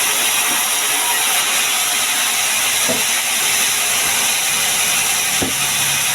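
Sawmill machinery running, a loud, steady hiss with no rhythm or rise and fall.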